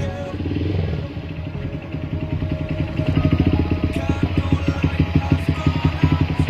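Honda Verza 150's single-cylinder four-stroke engine running at idle through an Akrapovic Lorenzo racing exhaust, a fast even pulse of about ten beats a second that grows louder about three seconds in.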